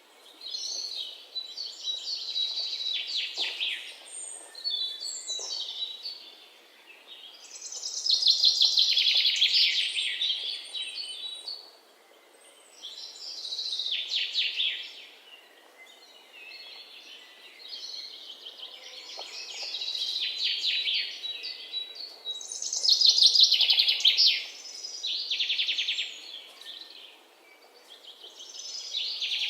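Small birds calling in bouts of rapid, high chirps, each bout a few seconds long with short lulls between, loudest about eight and twenty-three seconds in.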